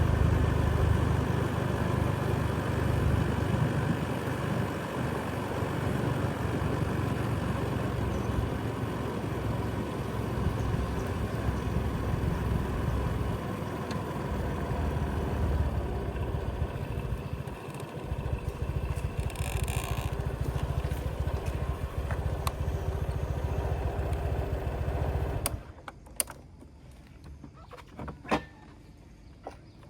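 A motor vehicle's engine running steadily nearby with a deep hum, cutting off suddenly about 25 seconds in. It leaves a much quieter outdoor background with a few sharp clicks.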